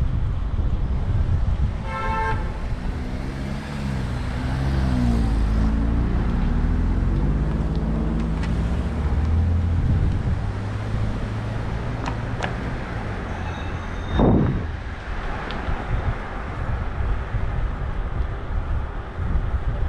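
City street traffic heard from a moving bicycle: a steady rumble of passing cars, a short vehicle horn toot about two seconds in, and a vehicle engine passing with its pitch sliding. A brief loud rush of noise stands out about fourteen seconds in.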